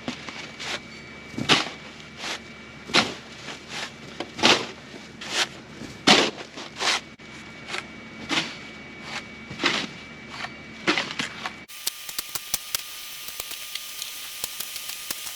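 Crunching steps through snow at a steady walking pace, about one every three-quarters of a second. Near the end they stop at a cut, and a steady hum with faint ticking follows.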